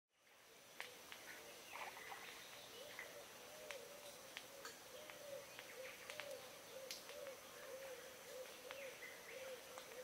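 Birds calling, fading in at the start: a steady series of low arched notes about twice a second, with short sharp chirps scattered over them and a faint steady high tone behind.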